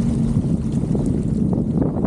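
Sea-Doo GTX 230 personal watercraft engine running, with wind buffeting the microphone.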